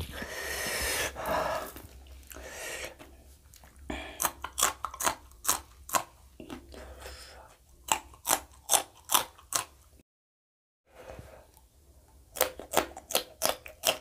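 Raw green chillies crunching as they are bitten and chewed close to the mic, several crisp crunches a second in runs. The sound cuts out completely for about a second near the middle.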